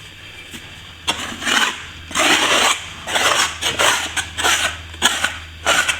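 A scraper blade being worked over half-set plaster, scraping it back before the next coat, in a series of rasping strokes that begin about a second in and repeat roughly every half second to a second. The plaster is caught just before it sets hard.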